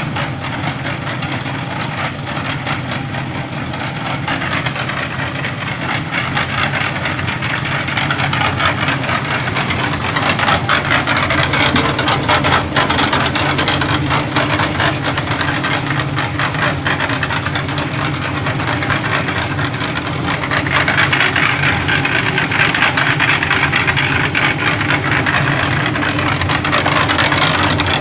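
A small engine running steadily with a fast knocking rattle, growing louder about a third of the way in and again near the end.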